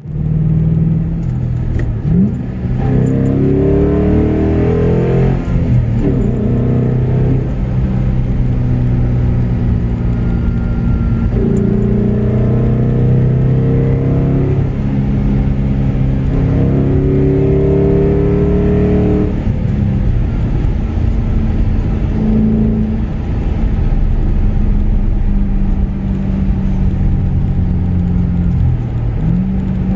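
Car engine under way, accelerating several times: its pitch climbs, then drops back at each gear change.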